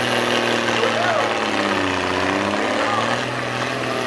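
Modified M35A2 deuce-and-a-half military truck's turbodiesel engine running hard under load while pulling the sled. Its pitch sags about halfway through and then recovers.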